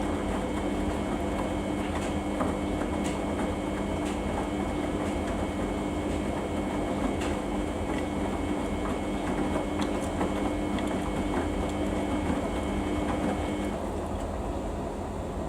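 Samsung washing machine running mid-cycle on its Daily 40 programme: a steady motor and drum rumble with a hum, scattered light clicks, and a higher motor whine that cuts off near the end.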